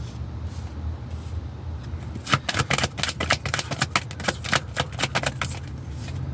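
Tarot cards being shuffled: a quick run of crisp card clicks starting about two seconds in and lasting about three seconds, over a steady low hum.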